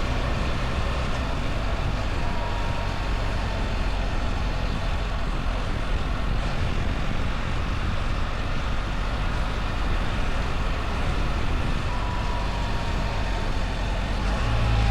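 BMW R1300 GS's boxer-twin engine running steadily on the move, under wind and road noise. A faint whine slides slowly down in pitch twice, and the sound gets a little louder near the end.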